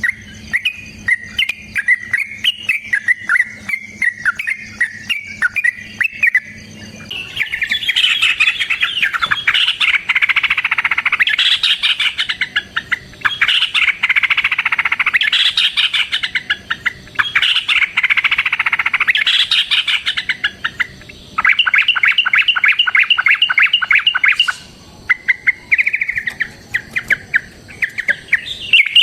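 Yellow-vented bulbul (trucukan) singing energetic, long rolling song phrases: quick chattering notes at first, then loud dense warbling bursts lasting several seconds each, and a fast run of evenly repeated notes near the end.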